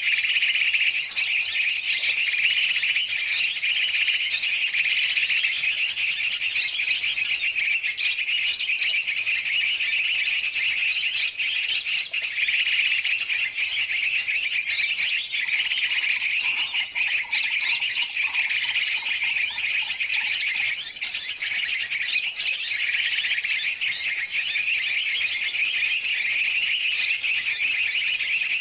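Dense, continuous chatter of many birds chirping over one another: a bird-trapping lure mix of large and small birds' calls, used to draw in yellow-vented bulbuls (trucukan). A fainter, lower rapid call joins in for a few seconds past the middle.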